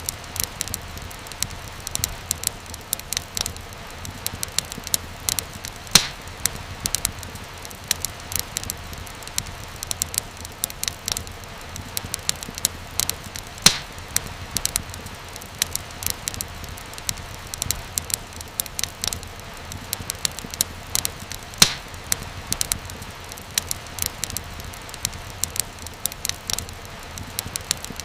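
Wood fire crackling in a fireplace: irregular sharp pops and snaps over a steady low hiss and rumble of flames, with a few louder pops about six seconds in, near fourteen seconds and about twenty-two seconds in.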